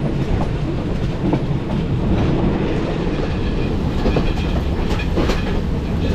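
Sri Lanka Railways passenger train running along the track, heard from an open coach doorway: a steady rumble of wheels on rail with scattered faint clicks.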